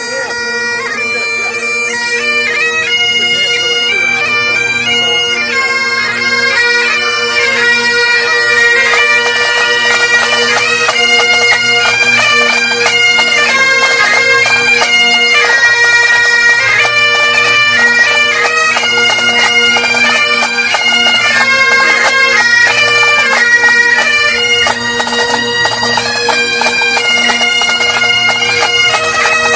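Several Great Highland bagpipes playing a tune together: a steady drone sounds under the chanters' melody, which moves quickly from note to note with rapid grace-note ornaments.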